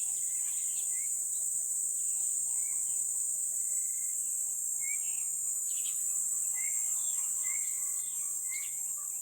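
A steady, high-pitched chorus of insects, with short bird chirps scattered through it.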